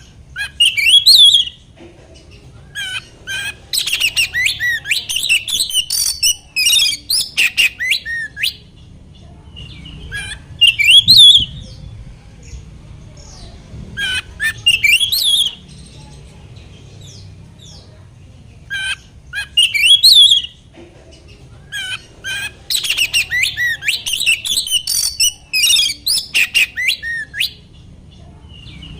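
Oriental magpie-robin (kacer) singing: loud whistled phrases and fast runs of sharp notes, in bursts of one to several seconds with short pauses between them.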